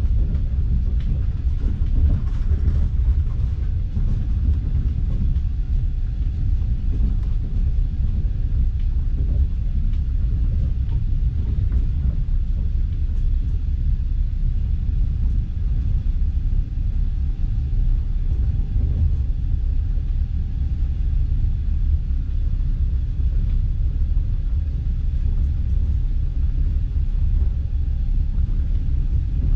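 Passenger train coach running along the rails, heard from inside the carriage: a steady low rumble of wheels and bogies, with a faint thin whine above it.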